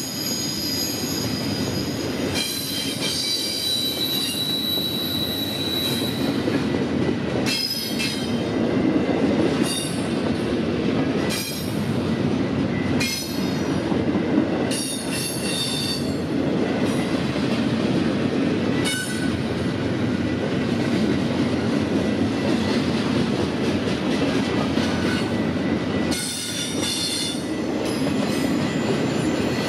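Canadian National freight train cars rolling past with a continuous rumble and high-pitched wheel squeal, strongest in the first few seconds, with scattered sharp clicks from the wheels.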